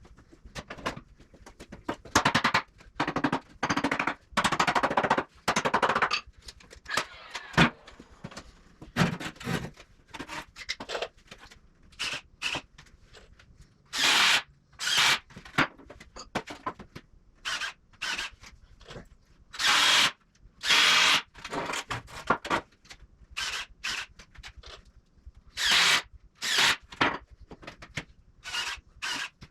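A handheld power tool run in many short bursts of about half a second to a second, with a few longer runs of a few seconds in the first quarter, each burst a rapid rattling hammering.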